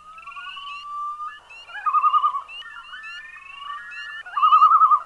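Several birds singing together in overlapping whistles, chirps and warbling trills. The loudest trills come about two seconds in and again near the end.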